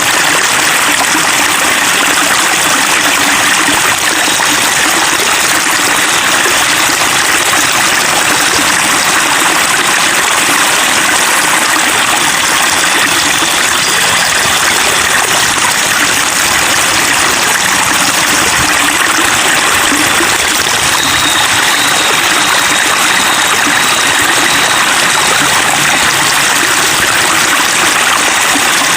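Running water babbling and trickling in a steady, unbroken rush, like a small stream.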